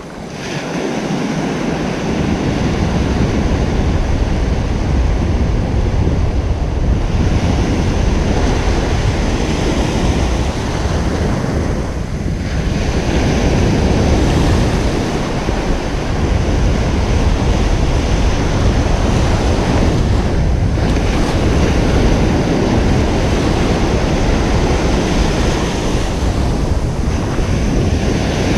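Ocean surf breaking and washing on a beach: a continuous rush of noise, heaviest in the low end, that swells over the first couple of seconds and eases briefly a few times. Wind buffets the microphone.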